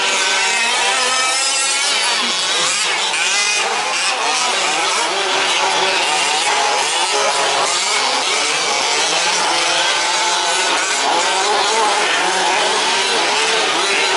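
Several 1/5-scale RC trucks' small two-stroke petrol engines racing together, their overlapping pitches rising and falling constantly as each one revs and backs off.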